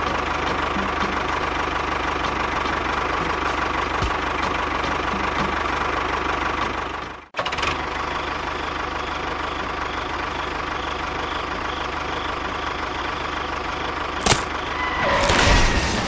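Steady engine idling and running, the sound of a tractor engine, with a brief break about seven seconds in and a sharp knock near the end.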